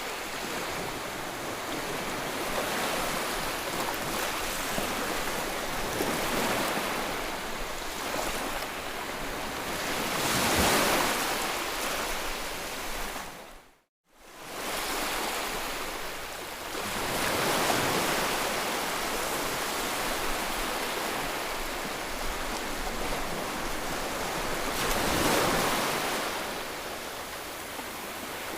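Steady rushing white noise for soothing a colicky baby, swelling and easing every few seconds like surf washing in. About halfway through it fades briefly to silence and comes back.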